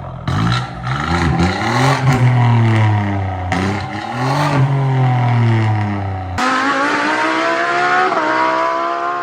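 BMW F20 118i's 1.5-litre B38 turbo three-cylinder through a dual exhaust with both resonators deleted, revved up and down several times. About six seconds in the sound changes abruptly to a steady, higher engine note whose pitch climbs slowly.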